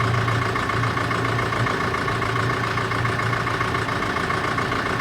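Sailboat's engine running steadily at low revs, a constant even hum.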